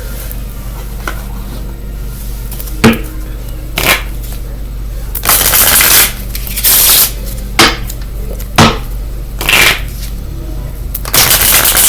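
Deck of tarot cards being shuffled by hand in several short bursts, with single sharp taps between them, over a steady low hum.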